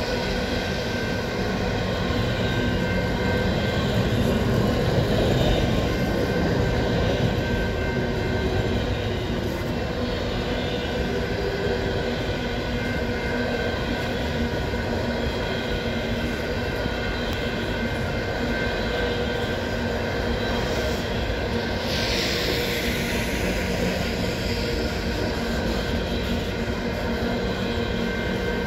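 Coal cars of a Canadian Pacific freight train rolling past, wheels running over the rails in a steady rumble with a few faint steady whining tones. A brief hiss rises about three quarters of the way through.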